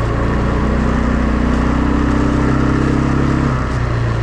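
Quad bike engine running under way, rising in pitch from about half a second in and easing off at about three and a half seconds.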